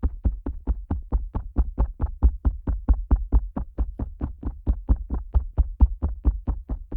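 Fingers tapping fast and steadily on the ear of a Neumann KU100 dummy-head microphone: low, deep thumps at about five a second.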